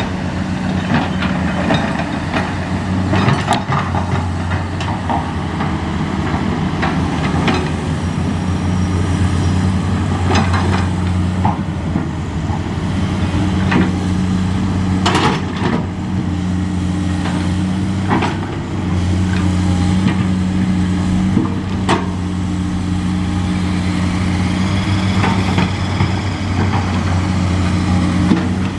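Nissan diesel truck engine running steadily at idle, with scattered knocks and clanks over it.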